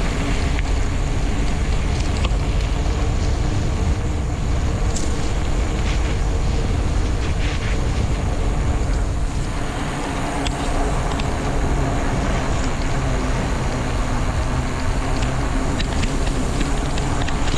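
Wind rumbling over the microphone of a bicycle rider coasting downhill at speed: a steady, loud noise.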